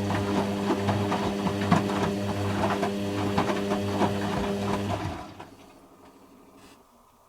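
Hoover Quattro System Power Jet Easylogic AE130 washing machine in its spin, the motor humming steadily with the drum rattling and clicking. About five seconds in the motor cuts out and the sound falls away to a faint hum.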